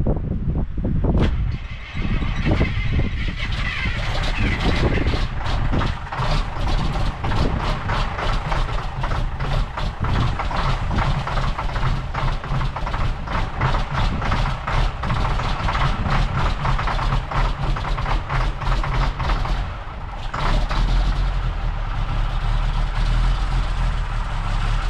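Diesel farm tractor engine running steadily, with a low, even hum.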